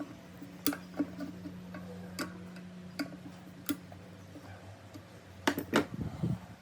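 Irregular sharp clicks and knocks over a steady low hum, about one click every half second to a second, with a quick cluster of heavier knocks near the end.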